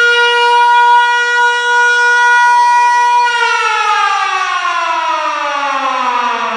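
World War Two German-style air-raid siren holding a steady high wail, then winding down about three seconds in, its pitch falling steadily as it runs down.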